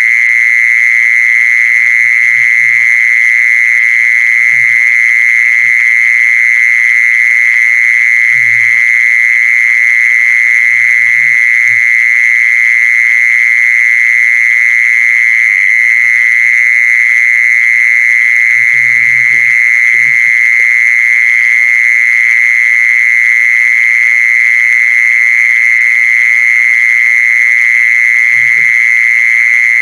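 A continuous, loud, high-pitched steady call or trill that never breaks, a recorded animal call played to lure the animal. Faint low knocks come and go underneath.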